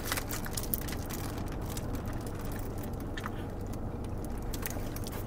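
Soft chewing, with scattered faint clicks and foil-wrapper crinkles, as two people bite into foil-wrapped burritos, over a steady low hum inside a car.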